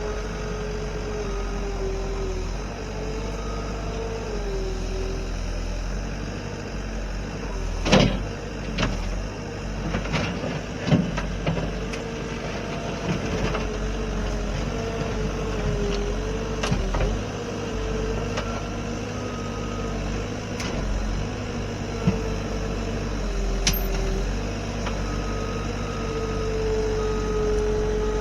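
Engine of a machine working in a tight pen, running steadily with a drone that wavers in pitch as it works. A few sharp knocks land about eight and eleven seconds in.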